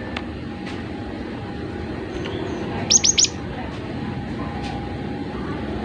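Cinereous tit (gelatik batu) giving three quick, sharp, high calls in a row about three seconds in, over steady background noise.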